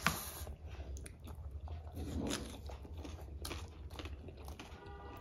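Close-miked eating: chewing and biting with moist mouth clicks and crunches, a sharp click right at the start.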